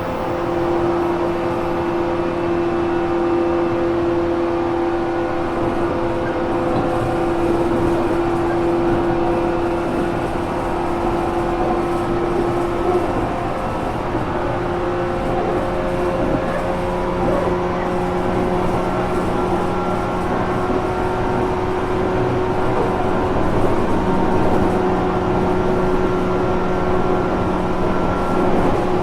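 JR Kyushu 415 series 1500 subseries electric train running, heard from inside motor car MoHa 414-1513, a car noted for an unusual running noise. Steady whining tones from the motors and gears ride over continuous wheel-and-rail noise, with their pitch shifting a little about halfway through.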